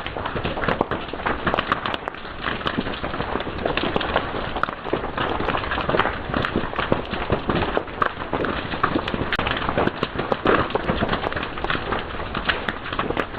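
Fire crackling, with dense, irregular sharp pops and snaps.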